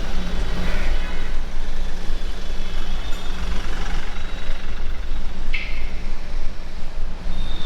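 Street traffic on a busy city road, with a steady low rumble of motor vehicles throughout and a short high-pitched sound about five and a half seconds in.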